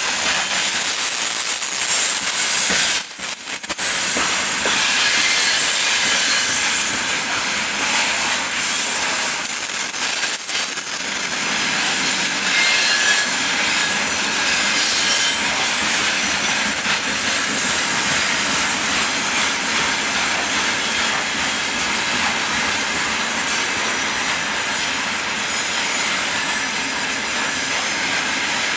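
Steady rolling noise of the wheels of a long freight train of gondola wagons passing on the rails. A faint high wheel squeal comes and goes around the middle.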